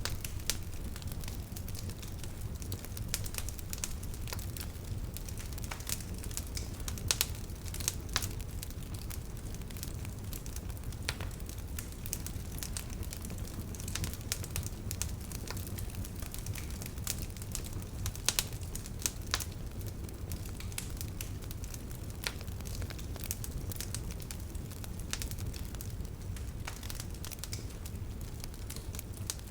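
Wood bonfire burning, with irregular crackles and snaps over a steady low rumble, and a few louder pops.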